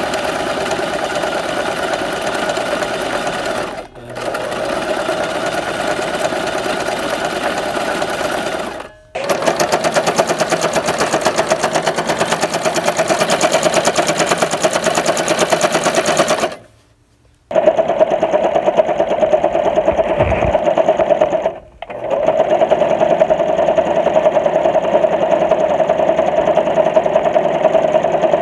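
Sewing machine running in stretches of several seconds, with a strong steady hum, stopping briefly four times. The longest stop, just under a second, comes a little past halfway.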